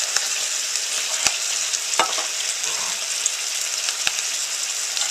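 Browned mince and freshly added kidney beans sizzling steadily in a hot steel pan, with a few sharp clicks over the top.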